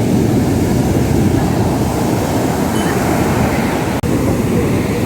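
Ocean surf breaking on the beach, a loud steady roar of waves.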